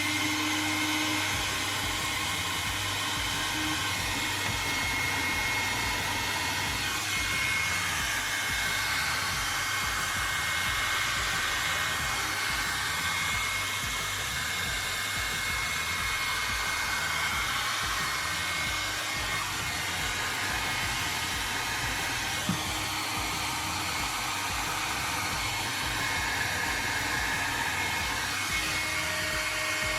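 Hair dryer running steadily, blowing hot air to thaw the ice that has jammed a freezer's fan.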